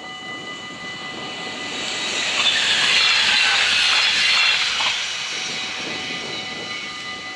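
Stadler GTW-E electric train passing over a level crossing, its rushing noise swelling to a peak about two to five seconds in, with a few wheel clacks, then fading away. The crossing's two warning bells ring steadily underneath.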